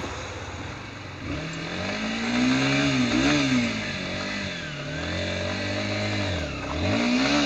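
Motorcycle engine revving, its pitch climbing and dropping back several times.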